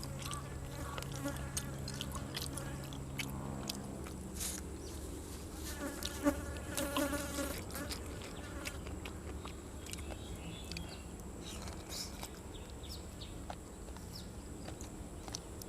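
Flies buzzing around the food while someone chews grilled cuttlefish and fresh vegetables, with many small mouth clicks. A brief pitched call rises about six to eight seconds in.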